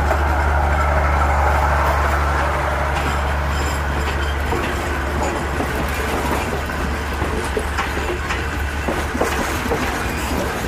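Passenger coaches of a departing Thai train rolling past close by, the wheels clattering over the rails with irregular clicks. A steady low hum underneath stops about four seconds in.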